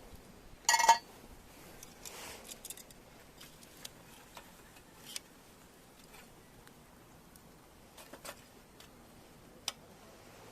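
Campfire crackling under grilling clams, with scattered sharp pops and one louder, briefly ringing clink about a second in.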